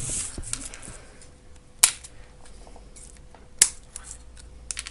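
Two sharp cracks about a second and three-quarters apart, with light ticks and handling noises in between, from work on the connection strips of an e-bike battery pack.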